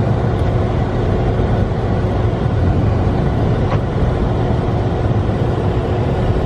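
Steady low rumble inside a moving car: engine and road noise, with a faint steady hum.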